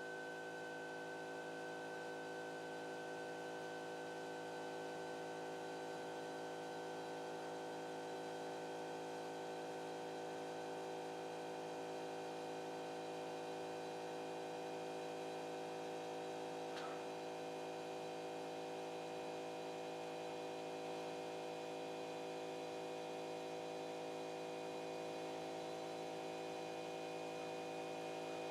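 Steady electrical hum and whine of a CNC drawing machine's stepper motors, several constant tones held together, with one faint tick about two-thirds of the way through.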